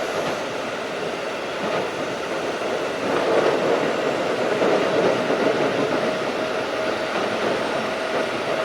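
Keikyu 1500 series field-chopper electric train running on the rails, a steady rumble that grows louder about three seconds in. A steady whine joins it about halfway through.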